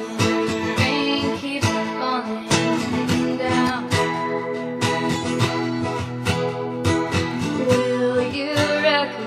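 Music: a strummed acoustic guitar with a sung vocal line that comes in briefly near the start and again near the end.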